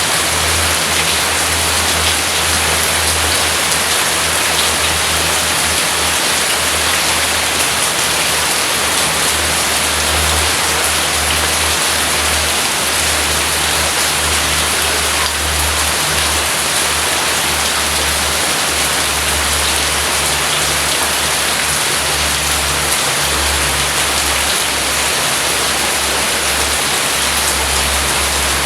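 Heavy rain falling steadily, with a low rumble underneath that swells and fades.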